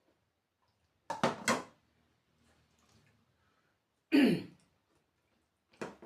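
Close-miked eating noises: a short cluster of mouth sounds about a second in, a louder one about four seconds in, and a brief one near the end.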